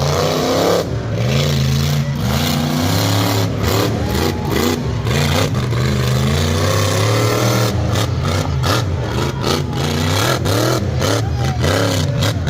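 Loud truck engine revving hard, its pitch swinging up and down again and again.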